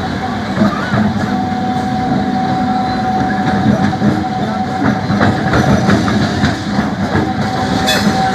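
MEMU electric passenger train running on the track: a continuous rumble with wheel clatter over the rails and a steady tone running through it, and a sharp click near the end.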